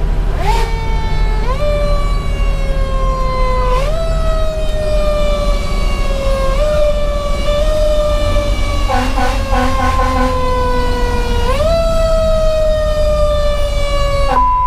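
Federal Q2B mechanical siren on a fire engine, heard from inside the cab, wound up again and again: each time its wail climbs quickly, then slowly sinks as it coasts down. A burst of short rapid blasts sounds around nine seconds in, over the steady low drone of the truck's diesel engine.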